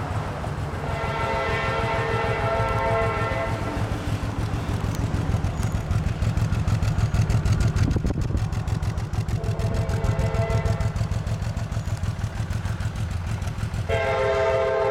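Train air horn sounding a chord of several tones: a long blast, a shorter one, then another long blast starting near the end, over a steady low engine rumble.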